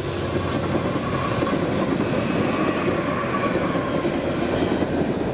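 Train passing close by: a steady, continuous rush of wheels rolling on the rails.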